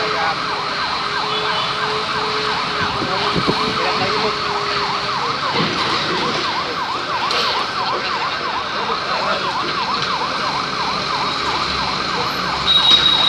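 A siren wailing in fast rising-and-falling sweeps, about three a second. A steady lower tone runs under it for the first few seconds, and a louder, steady high-pitched tone cuts in near the end.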